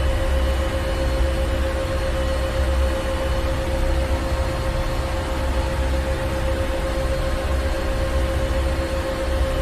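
Ship's engine room machinery running steadily: a deep, unbroken rumble with a constant hum over a wash of mechanical noise.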